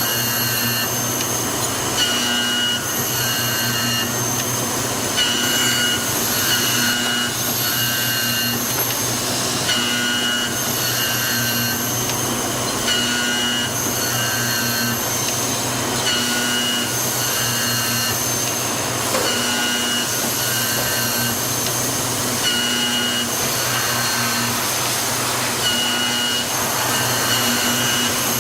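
Automatic key milling machine running, its cutter working a key blank: a steady motor hum with a high-pitched whine that comes and goes about every one to two seconds as it cuts in repeated passes.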